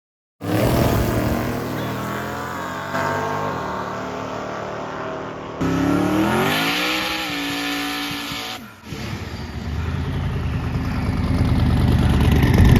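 Drag-racing car engines running and revving in a string of short clips that cut abruptly from one to the next. About six seconds in, one engine's pitch rises steeply as it revs up, and near the end a low, steady engine drone builds in level.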